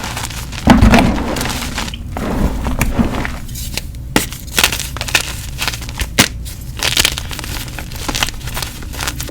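Block of gym chalk being crushed and crumbled, with crunchy snaps and softer crumbling. A loud crunch comes a little under a second in, and sharp cracks and crackles follow irregularly after it.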